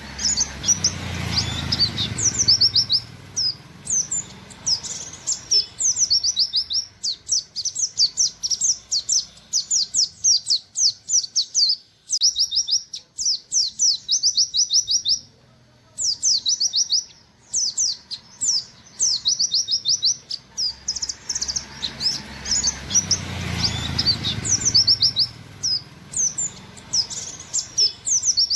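White-eye (pleci, buxtoni type) singing in rapid runs of short, high, sharp 'wit wit' notes, the fast 'nembak' song delivery, with a brief let-up midway. A faint low rumble sounds twice underneath, near the start and near the end.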